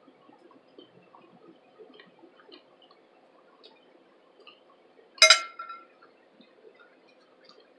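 Faint, soft mouth clicks of someone chewing a mouthful of dry cornstarch, with one loud, sharp clink about five seconds in that rings briefly.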